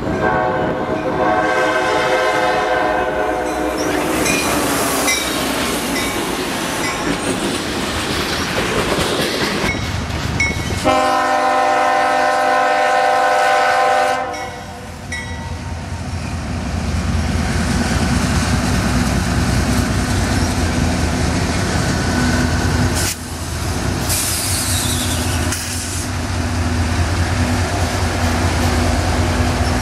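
CSX freight train's diesel locomotive horn sounding as the train approaches, sounded again about eleven seconds in, then the locomotives passing close by with a steady low engine drone.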